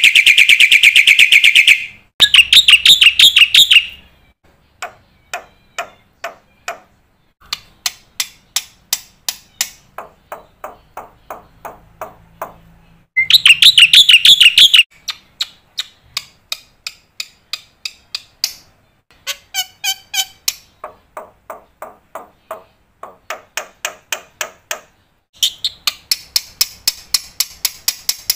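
Black-winged starling (jalak putih) singing loudly: rapid buzzy trills of fast repeated notes alternating with runs of sharp, evenly spaced chip notes and varied phrases, with short pauses between them.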